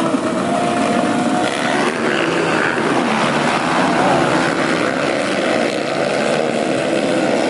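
Several racing dirt-bike engines running hard together, revving with their pitch rising and falling.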